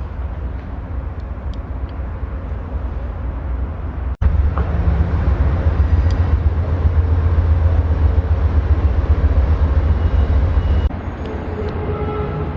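Steady low outdoor rumble, louder between two abrupt cuts about four seconds in and near eleven seconds.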